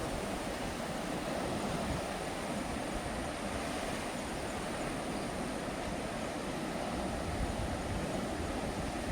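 Sea waves washing against a rocky coast, a steady, unbroken surge with no single crash standing out.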